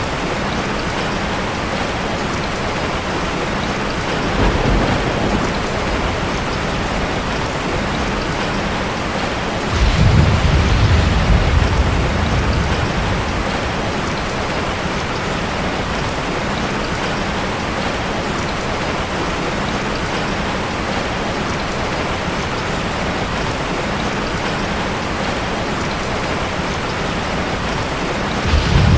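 Heavy rain falling steadily, with low rumbles of thunder: a faint one about four seconds in, a louder one lasting a few seconds about ten seconds in, and another starting near the end.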